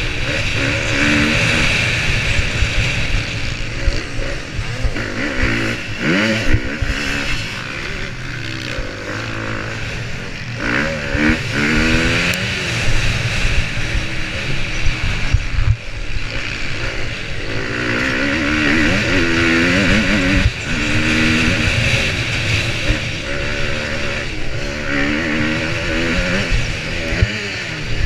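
Motocross bike engine revving hard, its pitch climbing and dropping again and again as the rider accelerates, shifts and backs off through the course.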